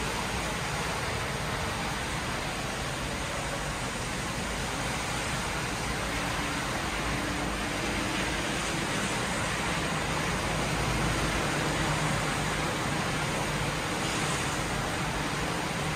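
Heavy rain pouring down steadily as an even, dense hiss.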